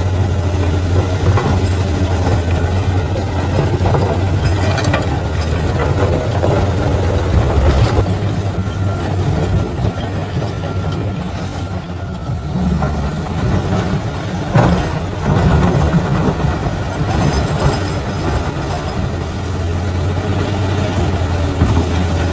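Bulldozer's heavy diesel engine running steadily at a low drone, with a few brief knocks over it.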